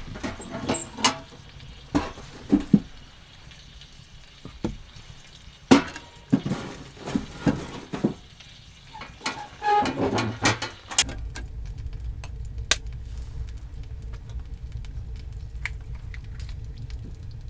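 Clinks and knocks of cooking gear being handled, with pouring or dripping liquid, over the first half. About eleven seconds in, a steady low rumble takes over.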